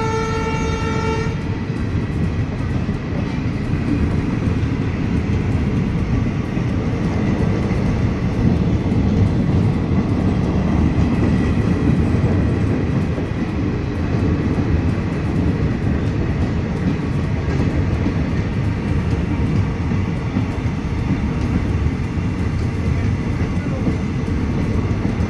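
A train horn sounds and cuts off about a second in, followed by the steady rumble of passenger coaches rolling past on the rails.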